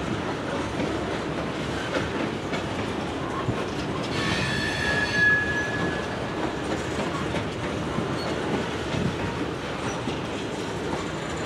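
Freight train boxcars and covered hoppers rolling past, their wheels making a steady rolling noise on the rails. About four seconds in, a wheel squeals on the rail with a high, steady tone for about two seconds.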